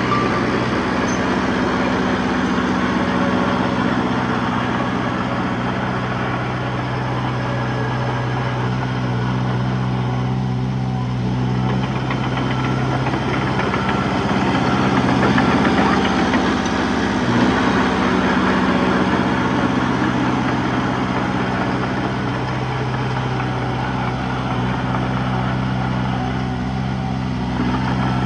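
Diesel engine of a D21P bulldozer running steadily while it works, growing slightly louder about halfway through.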